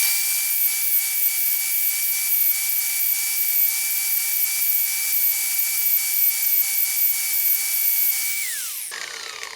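Power grinder fitted with a cut-off wheel running at speed with a steady high whine, grinding down the steel tips of circlip pliers. It is switched off about eight and a half seconds in, and the whine falls away as the wheel spins down.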